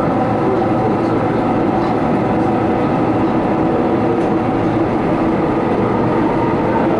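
Transperth electric suburban train running at speed through a tunnel, heard from inside the carriage: a steady rumble of wheels on rail with a few held humming tones over it.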